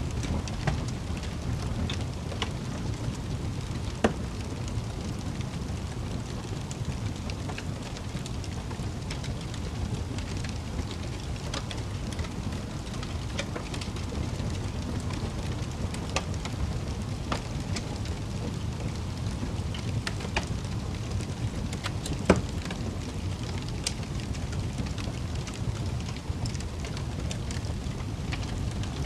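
Wood fire crackling in a fireplace: a steady low rumble of the flames with scattered sharp pops and snaps, the loudest about four seconds in and near twenty-two seconds in.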